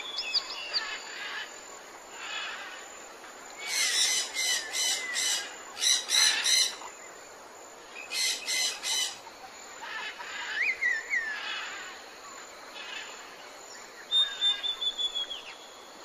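Wild birds calling: runs of loud, harsh, repeated calls about three a second, from about four to seven seconds in and again around eight seconds. Between them come shorter whistled notes that rise and fall, and near the end one long steady whistle, all over a constant background hiss.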